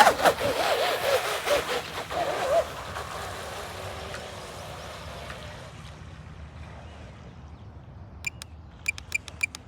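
RC speed boat taking off across the water, its motor whine wavering in pitch as it runs, then fading away over several seconds as the boat pulls away. A quick series of sharp clicks with a high beep-like tone near the end.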